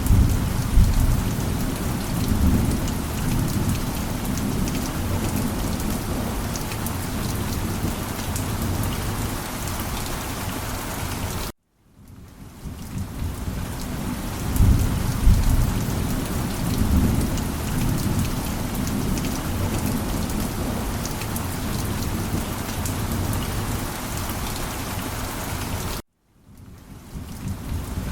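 Steady heavy rain with low rolling thunder rumbles, one early on and another about halfway through. The sound cuts out abruptly twice, about 11.5 s in and near the end, each time fading back in as the recording loops.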